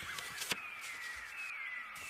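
Birds singing drawn-out whistled notes that glide downward in pitch, with one sharp click about half a second in.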